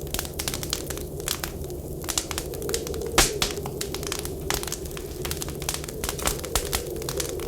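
Wood fire crackling in a stove, with irregular sharp pops and one louder pop about three seconds in, over a steady low wind noise.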